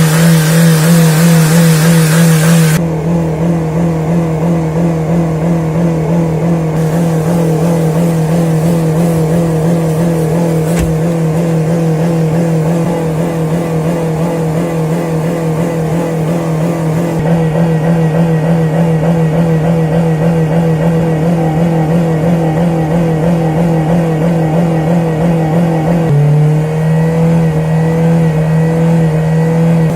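A vehicle engine revved hard and held at a steady high speed, one unwavering tone throughout. A hiss rides over it for the first few seconds, and the note shifts slightly near the end.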